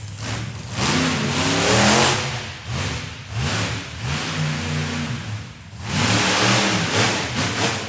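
Monster truck engine revving hard in repeated surges, the pitch climbing and falling, with loud exhaust noise at each peak.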